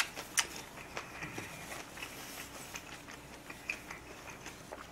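Faint eating sounds: a person chewing, with about a dozen small scattered clicks and smacks.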